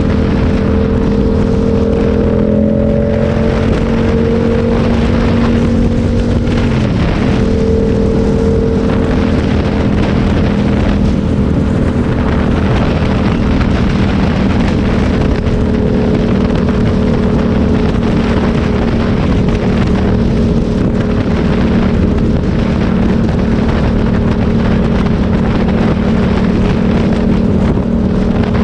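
Motorcycle engine running steadily while riding, with road and wind noise on the microphone. The engine note dips briefly about seven seconds in, then settles back to a steady pitch.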